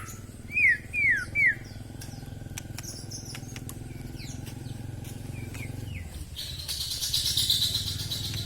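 White-rumped shama singing: three loud, descending whistled notes in quick succession within the first second and a half, scattered short notes, then a dense burst of rapid chattering song from about six seconds in. A low steady hum runs underneath.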